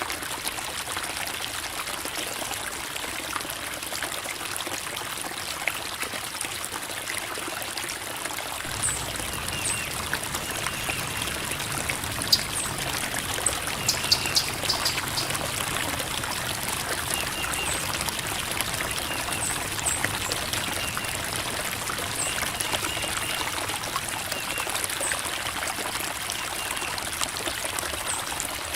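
Creek water flowing and trickling over rocks: a steady babble.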